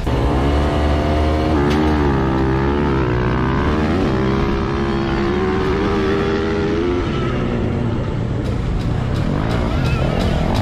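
Dirt bike engine revving, its pitch rising and falling again and again.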